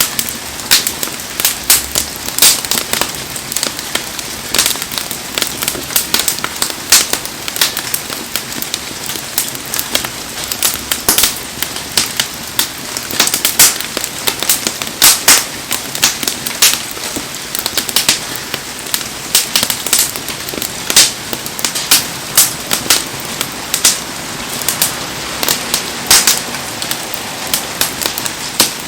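Wood campfire crackling, with frequent sharp irregular pops, over the steady hiss of heavy rain.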